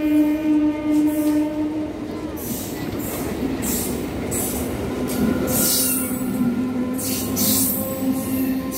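Indian Railways passenger train horn held on one steady note, cutting off about two seconds in. Then the coaches rolling past close by, wheels clattering over the rail joints in a repeating beat, with a faint steady squeal underneath.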